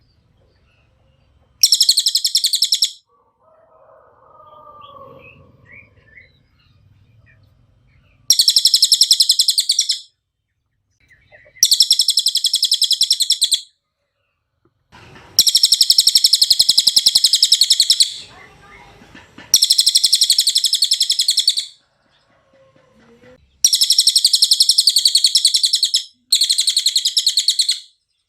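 Cililin (serindit, a small hanging parrot) singing in repeated bursts of rapid, high-pitched trilling chatter, seven in all, each lasting about one and a half to three seconds with short pauses between.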